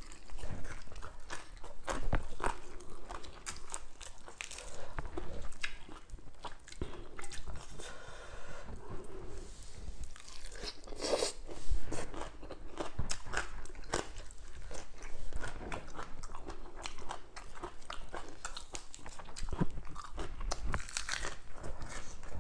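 Chewing and crunching close to a clip-on microphone as a person eats crisp fried fish and green papaya salad by hand, with many small crackles and one louder crunch about halfway through.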